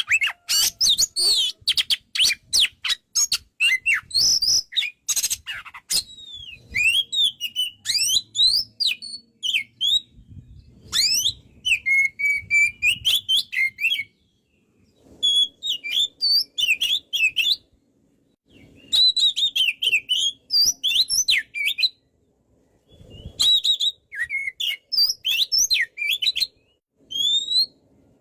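Oriental magpie-robin (kacer) singing: rapid harsh chattering notes for about the first six seconds, then phrases of varied high whistled notes that slide up and down, with short pauses between phrases.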